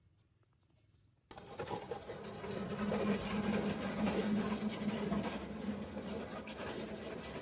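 A small machine starts abruptly about a second in and runs with a rapid clatter over a steady hum.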